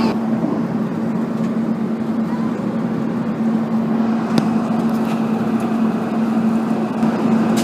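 Steady cabin noise inside an Airbus A380: a constant drone of the jet engines and rushing air, with an even hum running under it. There is a faint click about four seconds in.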